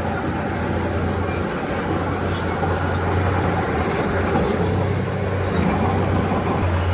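Heavy diesel earthmoving engine running steadily, with a constant low drone.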